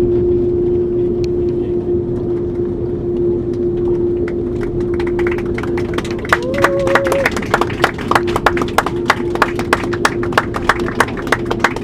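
Airliner cabin noise with a steady hum on landing. About four seconds in, passengers start clapping, and the applause grows denser.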